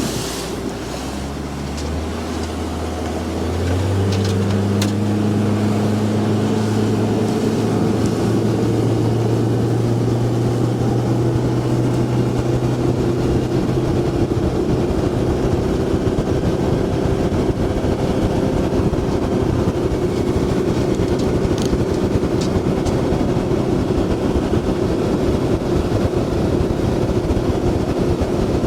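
Boat motor speeding up about three to four seconds in, rising in pitch and loudness, then running steadily under way with a rush of water and wind noise.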